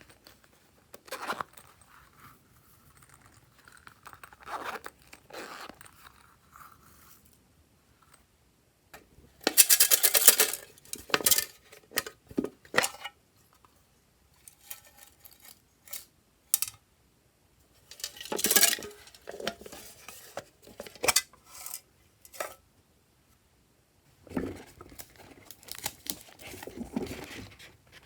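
Glossy slime being mixed and squished by hand, making bursts of sticky clicking and crackling with quieter gaps between them.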